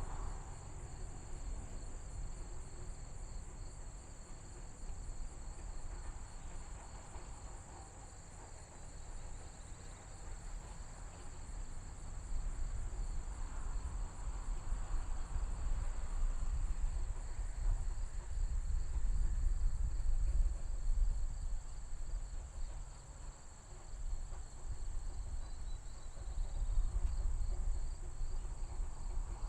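Insect chorus trilling steadily in fast, high pulses, over a low rumble that swells in the middle.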